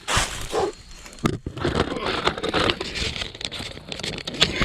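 Irregular crackling and rustling of dry leaves and undergrowth as a person pushes through jungle brush on foot, with sharp snaps mixed in.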